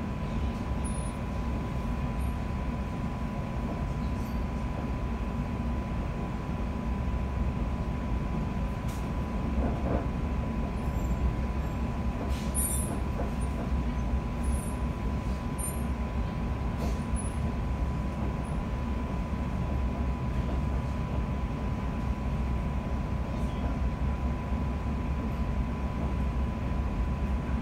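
Interior of a London Overground Class 710 (Bombardier Aventra) electric multiple unit running at speed: a steady low rumble of wheels on track with a constant whine at one pitch.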